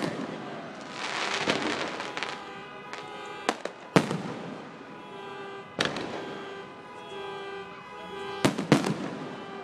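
Fireworks exploding: a crackling stretch about a second in, then sharp booms at intervals, two close together near the end. Music plays steadily underneath.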